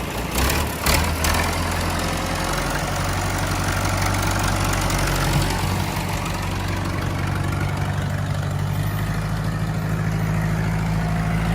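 John Deere 2440 farm tractor's four-cylinder diesel engine idling steadily, its pitch shifting a little a couple of times. A couple of short clunks come within the first second.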